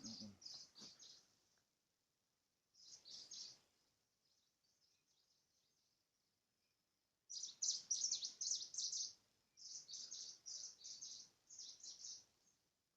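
Small songbirds chirping in quick bursts of high notes, with a quiet gap in the middle and a longer, livelier run of chirps from about seven seconds in.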